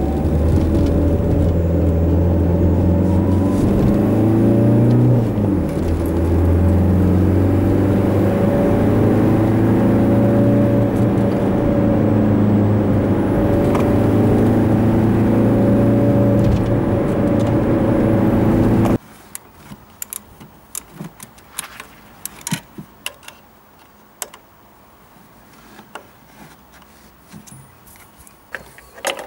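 Renault car's engine heard from inside the cabin while driving, taken up in engine speed as part of running an EGR cleaner through: the note rises in the first few seconds, dips once, then holds steady. About two-thirds of the way in it cuts off abruptly, and scattered sharp metallic clicks and taps follow as parts are handled in the engine bay while the EGR valve is being removed.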